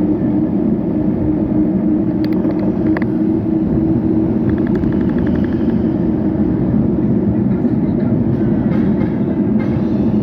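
Steady wind and road noise while riding, with passing traffic engines mixed in. A few faint short clicks and tones come about two to five seconds in.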